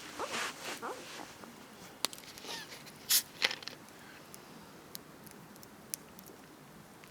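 Campfire crackling: scattered sharp pops and snaps, the loudest two close together about three seconds in, with a brief rustling near the start.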